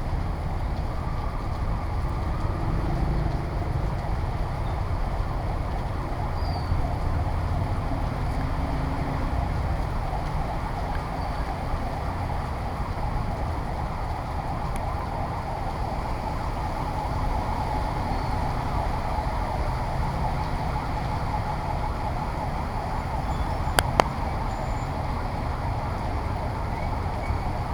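Street sound in heavy rain and strong wind: a steady wash of rain and traffic with a low rumble of wind on the microphone. Near the end come two sharp clicks a fraction of a second apart.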